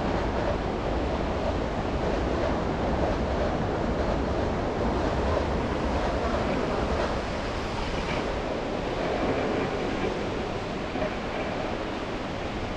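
Steady road noise from a car driving on snowy city streets: an even, surf-like hiss of tyres and traffic, with some wind on the microphone.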